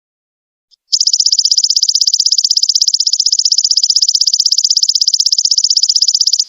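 Golden locust (belalang emas) insect song: a high-pitched, rapidly pulsing trill of more than ten even pulses a second. It starts about a second in, just after a brief faint chirp, and cuts off suddenly at the end.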